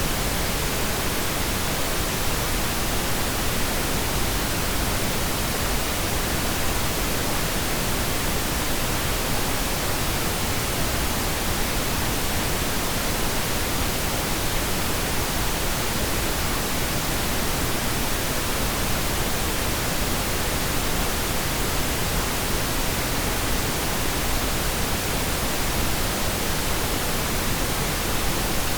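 Steady pink noise: a continuous, even hiss across the whole range, weighted toward the low end, with no variation or events.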